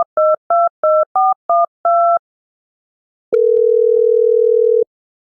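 Telephone keypad dialing a number: seven quick two-tone DTMF beeps in about two seconds. After a pause of about a second, a steady ringing tone comes on the line for a second and a half.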